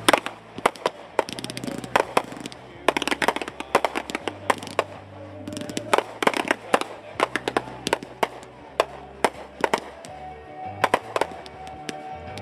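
Fireworks going off in a rapid string of sharp bangs and crackles, several a second, with music playing underneath.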